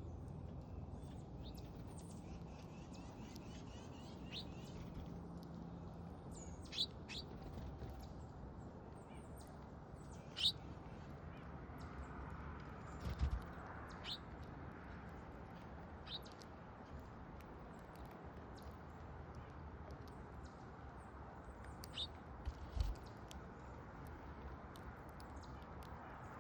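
Small songbirds at a backyard feeder giving short, scattered chirps over a steady background hum. Twice, near the middle and again later, a soft low knock comes together with a chirp.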